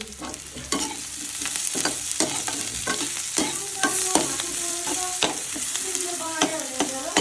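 Food sizzling and frying in a karahi while it is stirred, with repeated sharp clicks and scrapes of a spatula against the pan.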